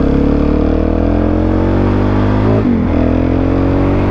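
Suzuki DR-Z400SM's single-cylinder four-stroke engine pulling under load, its pitch rising slowly. It breaks off and drops with a gear change about two and a half seconds in, then climbs again, with wind noise over the microphone.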